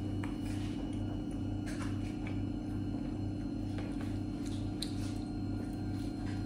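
A man chewing a slice of pizza and biting into it again: soft wet mouth sounds with scattered faint clicks. Under it runs a steady low hum that pulses two to three times a second.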